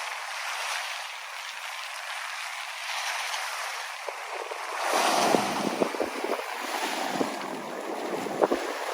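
Steady outdoor rushing noise that swells louder about five seconds in, with a few sharp ticks and pops in the second half.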